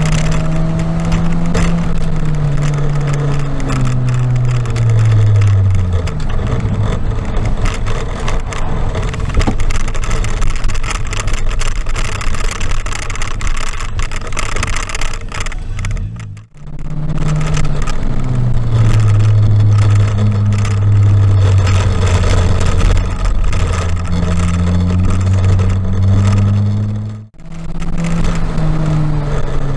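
Car engine driven hard on a wet race track, its pitch falling as the car slows in the first few seconds, then a long stretch of wet tyre and road noise, then the engine note holding low and climbing again as it accelerates. The sound drops out briefly twice, just past halfway and near the end.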